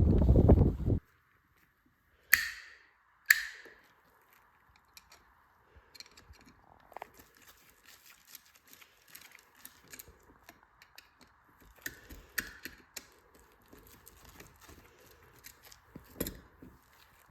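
Background music that cuts off about a second in, then two sharp clicks about a second apart, followed by faint scattered small clicks and handling sounds over a faint steady hum.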